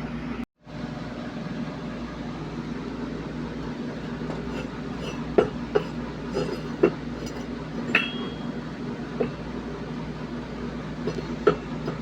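About nine scattered metallic clinks and taps, the one about 8 seconds in ringing briefly, over a steady low hum.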